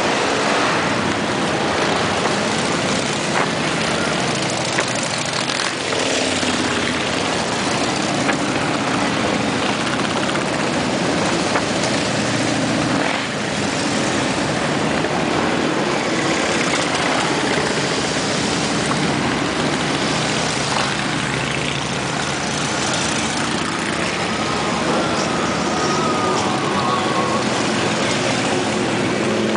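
A continuous stream of motorcycles riding past one after another, the engine noise swelling and fading as each bike or group goes by.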